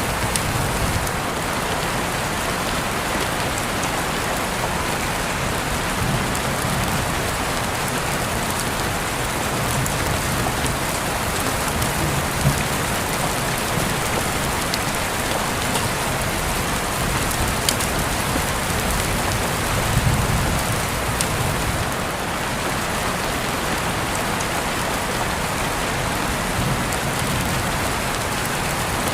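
Steady rain falling, with a few close drops ticking now and then and a soft low rumble swelling and fading every several seconds.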